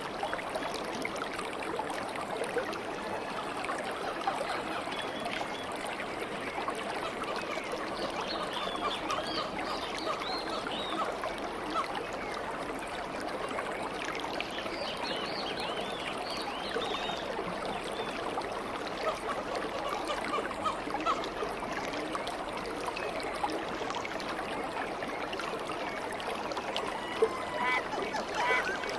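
Stream water flowing steadily, with birds chirping over it: clusters of quick high chirps about a third of the way in and again around halfway, and a run of calls near the end.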